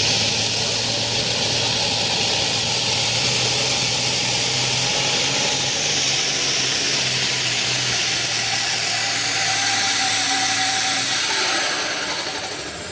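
Engine of a competition puller running hard at full throttle under load during its pull, steady for about eleven seconds, then dropping off near the end as the run finishes.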